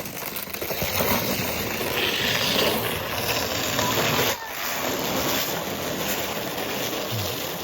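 Steady grainy hiss of a sled sliding over crusty, gritty snow, with a brief dip about four seconds in.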